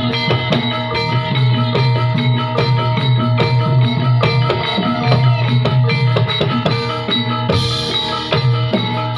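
Topeng Ireng dance accompaniment music: drums and struck tuned percussion playing a steady rhythm, with a change in the texture about three-quarters of the way through.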